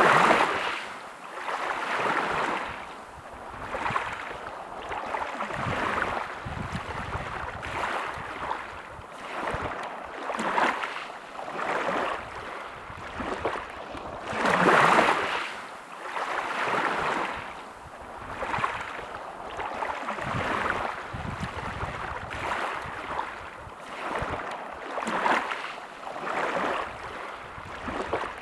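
Small sea waves washing onto the shore, a swell of surf about every two seconds with a bigger wave near the middle.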